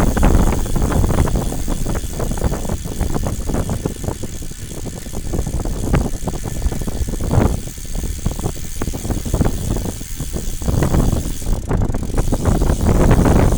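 Low rumbling noise with frequent rattling from a moving vehicle, quieter in the middle and louder again near the end.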